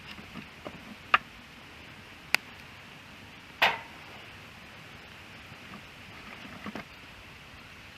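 Wood fire crackling over a steady soft hiss, with a few sharp pops spaced about a second apart, the loudest in the middle, and smaller crackles near the end.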